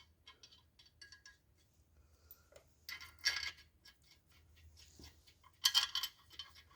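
Light metallic clicks and clinks of water pump bolts being handled and threaded into the block by hand, with two louder clusters about three seconds in and near the end.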